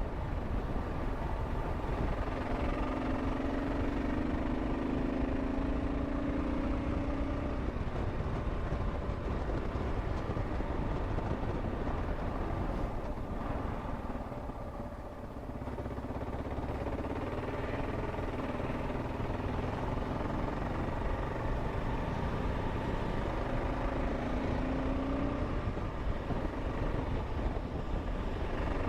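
Kawasaki KLR 650 single-cylinder engine running steadily under way, heard through a helmet-mounted camera together with road and air noise; it eases briefly about halfway through.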